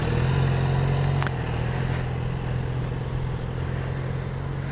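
Motorcycle engine running at low, steady revs, slowly growing fainter. There is a brief click about a second in.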